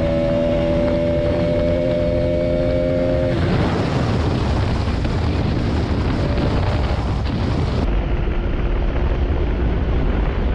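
Motorcycle ridden at speed: a steady engine hum for the first three seconds or so, then mostly loud wind rush on the microphone with the engine underneath.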